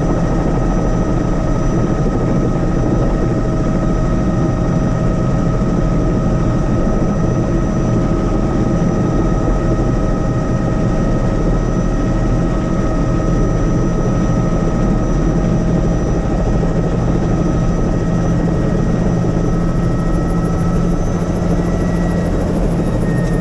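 Helicopter in flight: steady engine and rotor noise with a constant high whine, which shifts slightly in pitch near the end.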